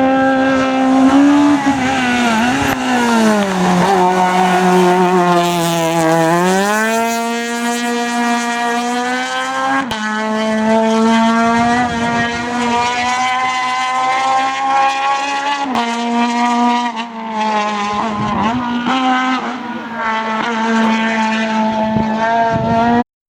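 Citroën AX rally car's engine running hard at high revs, the pitch sagging then climbing steeply, with a quick drop in revs about two-thirds of the way through as if shifting gear. The sound cuts off suddenly near the end.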